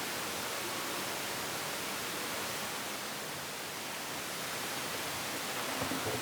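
A steady, even hiss, with a few faint clicks near the end.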